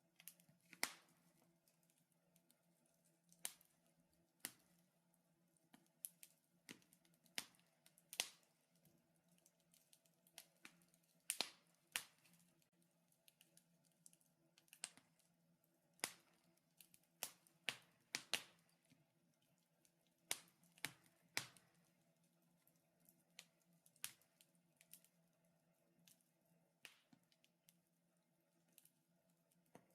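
Wood fire in a fireplace crackling: sharp, irregular pops and snaps, a few every couple of seconds, over a faint steady hum.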